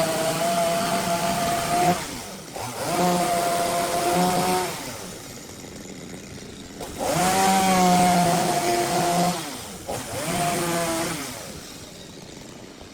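Chainsaw run in four bursts a few seconds apart, its engine pitch bending down and back at each burst, as it cuts into a rough wood blank.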